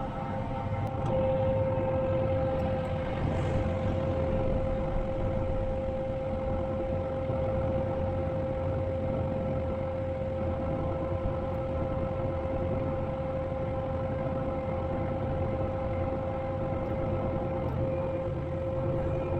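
Combine harvester running steadily while cutting soybeans: an even machine rumble with a constant high whine over it.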